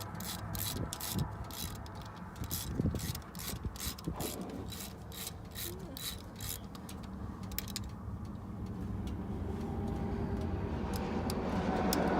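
Hand socket ratchet clicking in quick, even strokes, about three a second, as a bolt on the thermostat housing is backed out. The clicks thin out near the end.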